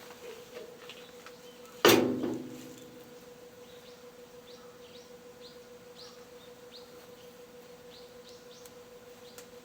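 A single loud metallic clang about two seconds in that rings out for about a second, over a steady hum. Faint short bird chirps come and go later on.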